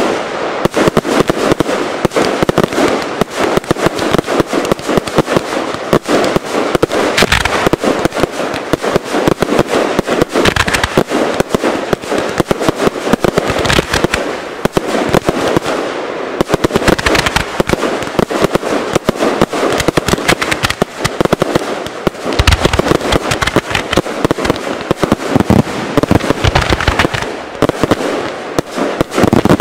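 Dense aerial fireworks barrage: a rapid, unbroken stream of bangs and crackling from many comets and shells going off at once.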